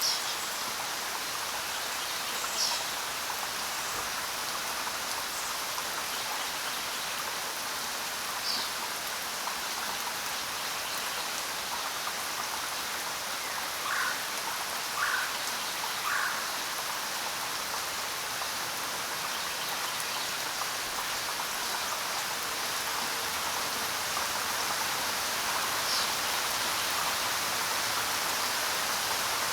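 Steady rain falling on the ground, an even hiss of many drops. A few short, sharper sounds stand out, three of them about a second apart near the middle.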